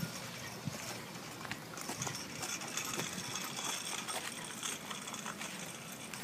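A child's bicycle rolling slowly along a road, with faint irregular clicks and rattles over a steady outdoor hiss.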